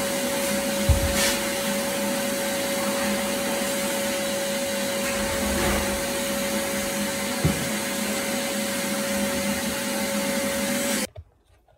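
Vacuum cleaner running with a steady hum, with a couple of brief knocks as it is worked. It switches off abruptly near the end.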